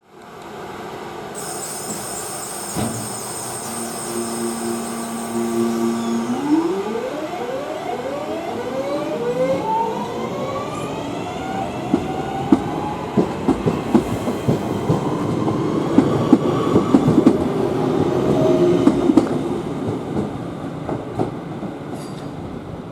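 A train at a station pulling away with a high squeal near the start and a whine that rises in pitch in steps as it speeds up, then its wheels clattering over rail joints and points, loudest as it passes.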